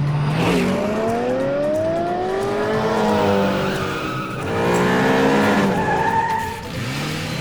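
Cartoon race car engine sound effects, revving up in two long rising sweeps over a steady low engine drone.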